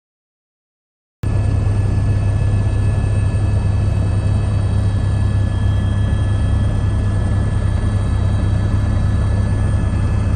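Mi-17 helicopter's twin turboshaft engines and rotors running steadily: a constant low drone with a steady high whine on top, cutting in abruptly about a second in.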